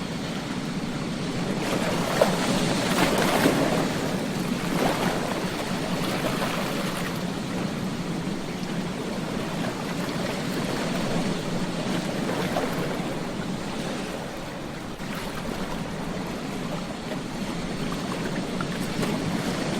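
Ocean surf breaking and washing up a beach: a continuous rush of water that swells louder a couple of seconds in and rises and falls again further on.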